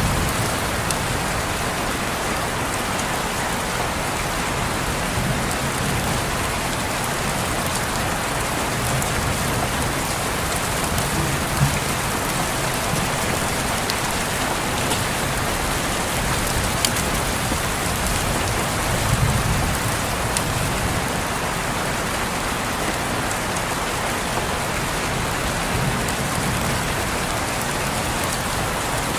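Steady rain falling on a window, a constant even hiss with occasional sharper drop ticks and a soft low rumble underneath.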